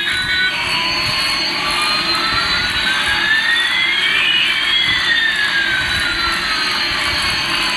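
Electronic jet-engine sound effect: a steady hiss with two whining tones, one rising and one falling, that cross about halfway through.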